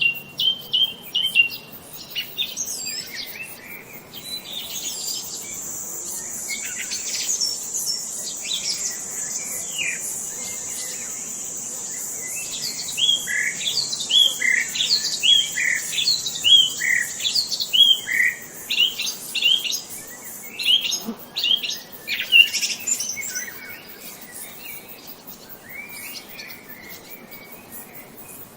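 Several wild birds chirping and calling, with quick repeated chirps at first and a run of short down-slurred whistled notes in the middle. A steady high, thin buzz runs underneath for most of the first two-thirds and then stops, after which the calls thin out.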